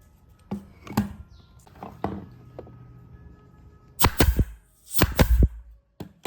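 Sharp knocks and impacts on wood: a few single strikes, then two loud clusters of rapid blows about four and five seconds in.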